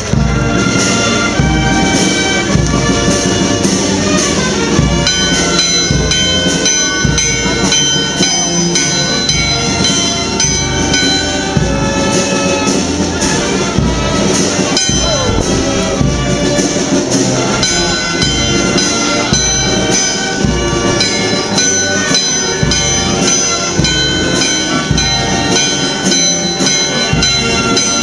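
Brass band playing a march, with held brass chords over regular drum beats.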